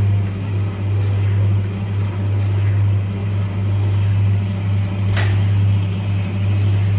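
Lavion automatic sausage and salami slicing machine running, its motor giving a steady low hum with a slight pulsing. A brief sharp click comes about five seconds in.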